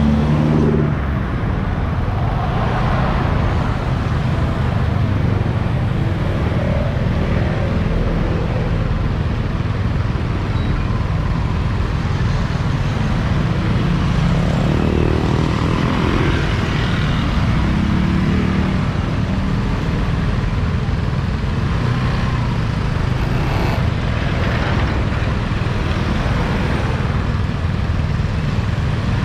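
Motorbike riding along a road: a steady, low-heavy rumble of engine, road and wind noise, with no let-up.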